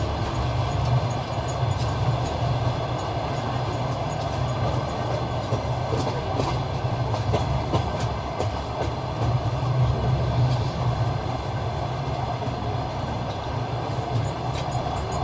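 Passenger train carriage running along the track, heard from inside the coach at the window: a steady low rumble of wheels on rails, with scattered clicks of the wheels over rail joints.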